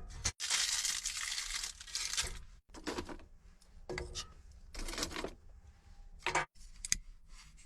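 Crumpling and tearing in several bursts, then a few sharp clicks near the end, while a homemade heating stove is being readied for lighting.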